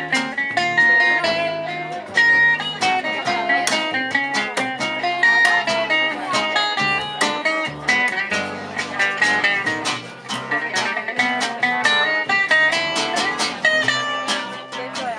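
Gypsy jazz (jazz manouche) played live by a band: quick, busy plucked guitar lines over a walking low line.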